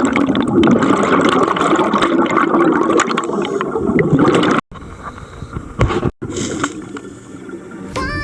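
Underwater camera audio of a scuba dive: dense bubbling, gurgling water noise that cuts out abruptly about four and a half seconds in, then returns quieter, with a second brief dropout about six seconds in.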